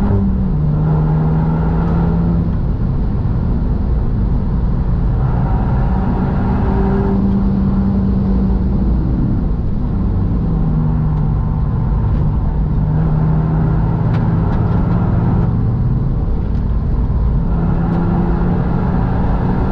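Renault Mégane RS Trophy-R's turbocharged four-cylinder engine pulling hard at track speed, heard from inside the cabin over tyre and road noise. Its note climbs and then drops back in pitch several times as the car accelerates and lifts through the bends.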